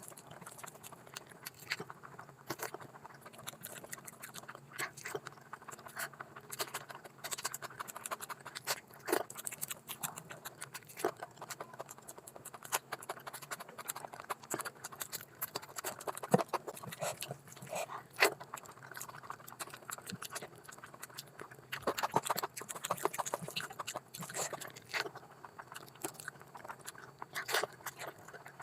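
Close-miked eating sounds of a person eating curry with rice: irregular wet chewing, smacking and small clicks.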